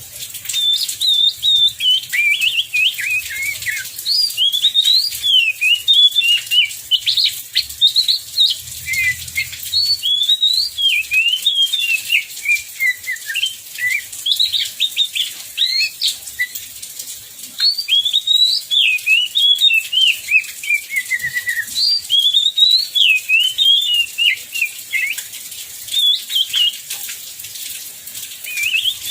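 Oriental magpie-robin (kacer) singing a long, varied run of quick whistled notes that slide up and down, broken by a few short pauses.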